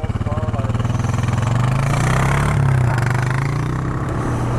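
ATV engine running steadily while riding a trail, rising in pitch about two seconds in and then settling back.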